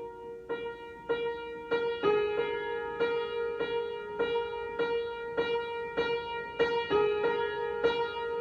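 Improvised keyboard music in a piano sound: one note struck again and again, about every half second, over held chord tones, getting louder about two seconds in.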